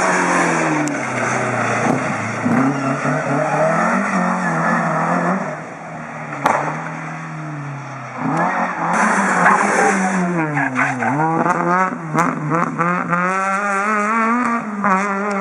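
Rally car engine revving hard, its pitch rising and falling with gear changes and lifts, with a sharp crack about six seconds in. In the second half the engine is blipped up and down rapidly.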